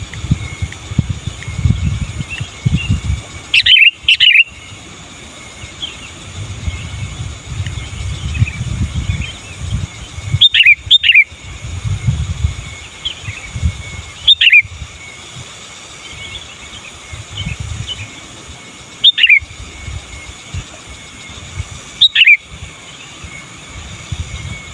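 Sooty-headed bulbul (kutilang) singing: five loud, bright phrases, each falling in pitch, spaced a few seconds apart, with fainter chirps between them over a low rumble.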